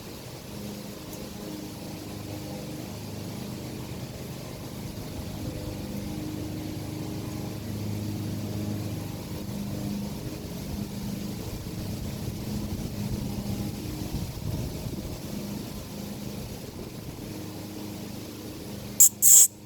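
An engine running steadily with a low hum. Two sharp, loud clicks come close together just before the end.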